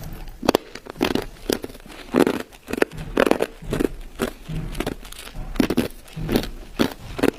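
Ice being bitten and chewed: an irregular run of sharp cracks and crunches, several a second.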